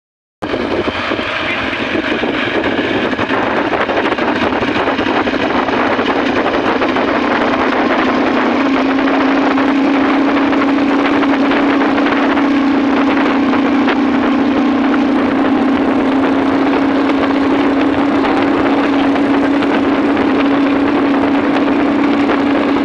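Motorcycle engine running at a steady cruising speed while riding, with a rush of wind noise. It starts suddenly, and its note rises a little about eight seconds in, then holds steady.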